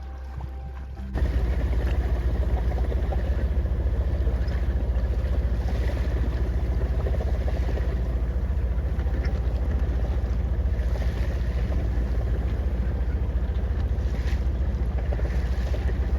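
A boat's engine running steadily, with a strong low rumble, mixed with some wind and water noise. It comes in abruptly about a second in.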